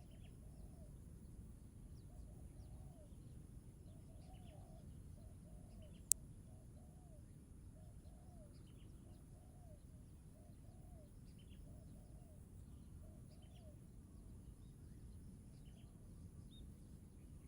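A bird's short, low call repeated about once a second, over faint high chirps from small birds. One sharp click about six seconds in.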